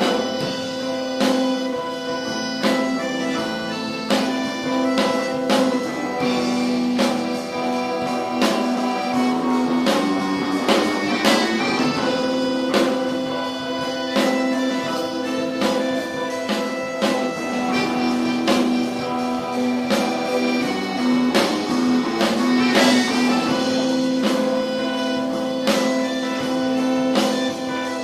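Live rock band playing an instrumental passage: long droning chords over drums with regular cymbal hits, and no singing.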